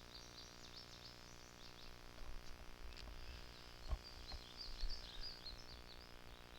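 Birds chirping and singing in a dense run of short high notes, over a low rumble, with a single short knock about four seconds in.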